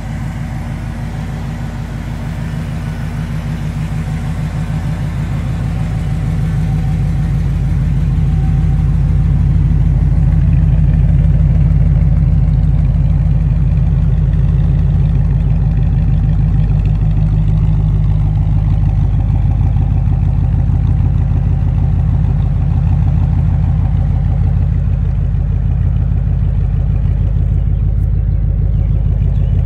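1995 Chevrolet Impala SS's 5.7-litre LT1 V8 idling steadily with a deep, even exhaust pulse. It grows louder over the first ten seconds or so, then holds steady.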